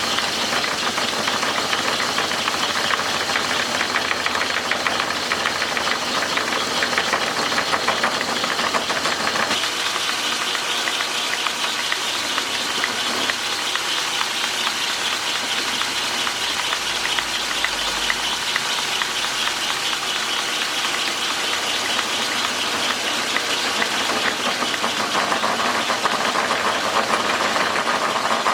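Metal lathe running steadily, its cutting tool taking a pass to turn a weld-built-up part back down to size.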